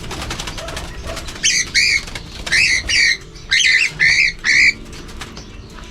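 Cockatiel giving a run of about seven loud, harsh screeches, loosely in pairs, starting about a second and a half in: alarm calls from a bird being caught and held by hand.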